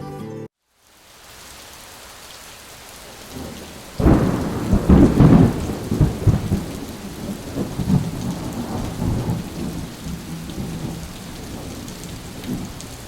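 Wind gusting against the microphone in a snowstorm: a steady hiss with heavy, uneven rumbling buffets, loudest about four to six seconds in.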